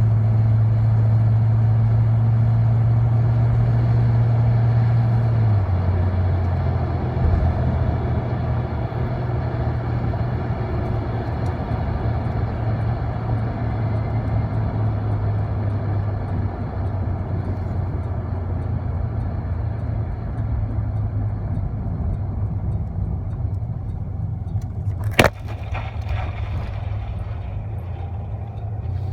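Truck engine and road noise heard from inside the cab while driving, a steady hum whose pitch steps down about six seconds in. A single sharp click comes near the end.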